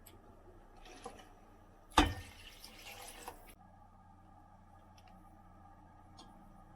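A knock, then water running briefly, which stops suddenly about a second and a half later; a few light clicks before and after.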